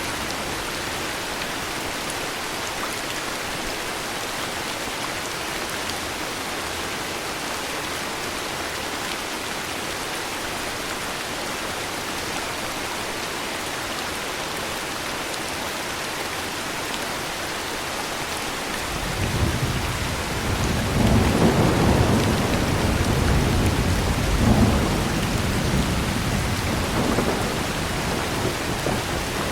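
Heavy rain falling steadily. About 19 seconds in, a long, low rumble of thunder builds and rolls on to the end, peaking a few seconds after it starts.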